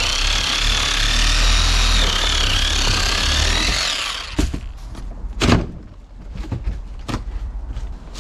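A power tool runs with a wavering high whine for about four seconds, then stops; a few knocks and clunks follow, the loudest about five and a half seconds in.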